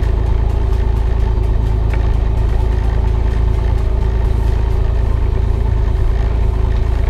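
Cessna 182's piston engine running steadily at low power, a constant drone with no change in pitch, heard inside the cabin.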